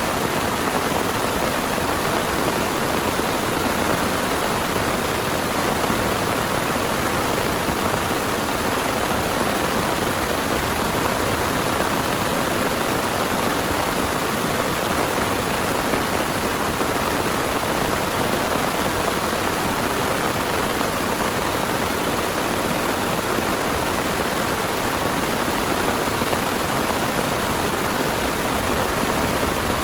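Heavy rain pouring down steadily, an even unbroken hiss with no single drops or thunder standing out.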